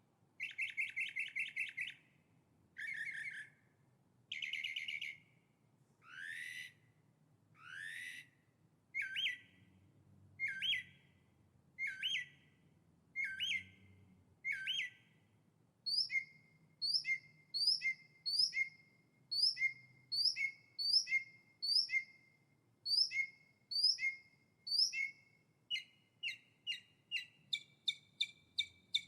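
A songbird singing a clear, varied song in repeated phrases: a few buzzy trills, then rising whistled sweeps, then a long series of sharp down-slurred and two-part notes about one a second, quickening into a faster run near the end.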